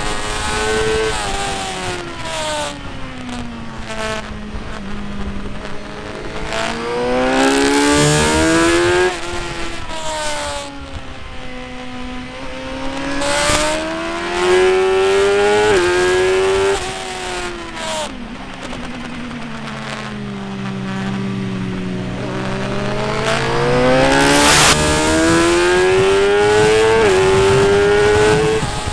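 Motorcycle engine being ridden hard around a race track. Its revs fall as it slows for corners and climb again under acceleration about three times, with quick gear changes breaking each climb.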